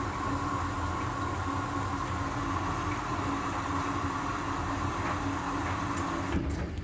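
Hoover H-Wash 500 washing machine running in service (test) mode: a steady mechanical hum with a constant whine over a low rumble, with a few clicks near the end.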